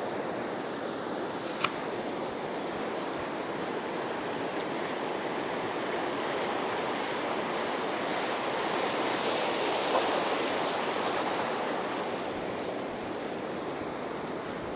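Steady rush of surf breaking on a sandy beach, swelling a little about two-thirds of the way through, with one short sharp click a couple of seconds in.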